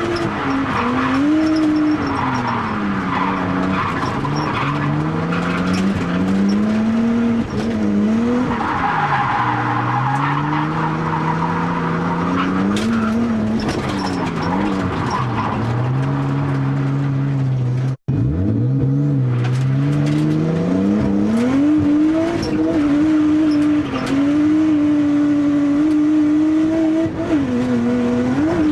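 Nissan R32 Skyline's turbocharged RB20DET straight-six, on its stock turbo with raised boost, revving up and down again and again through drift runs, with tyre squeal in places. The sound drops out for an instant about two-thirds through, then the revs climb steeply.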